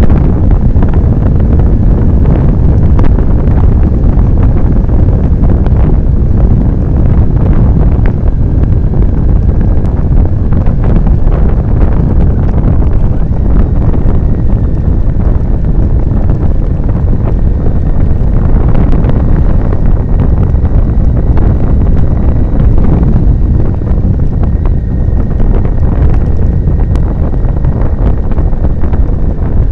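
Wind buffeting the microphone of a moving motorcycle: a loud, steady rush, with a faint thin steady whistle coming in about halfway.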